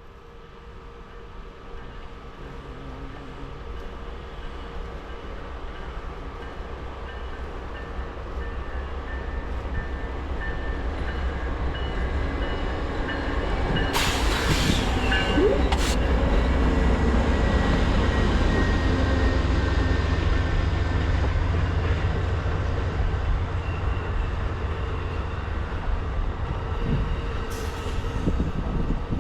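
Amtrak Southwest Chief passenger train rolling into the station, a low rumble that grows steadily louder and peaks past the halfway point. Two brief hisses come about halfway through.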